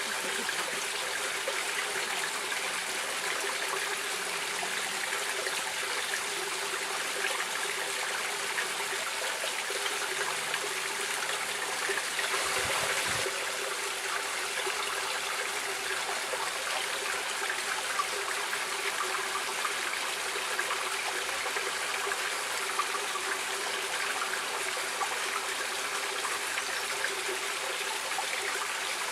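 Stream water running and trickling steadily over stones, with a brief swell of louder flow about twelve seconds in.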